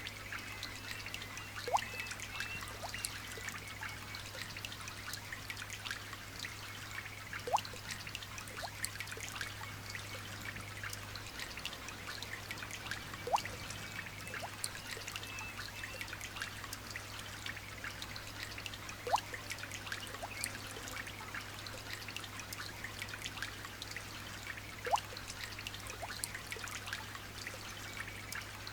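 Light rain pattering steadily as many small drops, with a louder single drip plinking about every six seconds. A low steady hum sits underneath.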